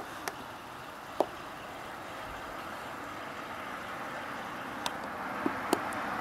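A car approaching on a nearby road, a steady noise growing slowly louder toward the end. Over it, a handful of sharp, irregular taps from a woodpecker pecking at a rotten tree stump.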